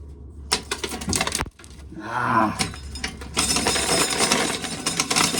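Corn being shelled: a few sharp clacks, then a short pitched squeak. From about three and a half seconds in comes a dense, continuous rattle of kernels being stripped off the cob and falling.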